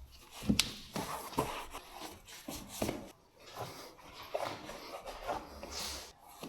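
A run of irregular light knocks and rubbing noises, a dozen or so short strokes with no steady rhythm.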